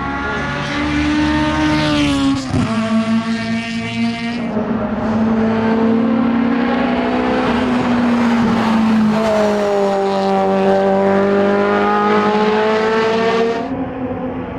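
Honda S2000 AP1's 2.0-litre four-cylinder engine revving hard on track. Its pitch holds high with slow rises and falls, a sudden brief dip about two and a half seconds in, and a sudden drop in loudness near the end.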